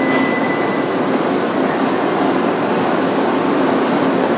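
E2 series Shinkansen train at the platform, giving a steady hum and hiss from its running equipment.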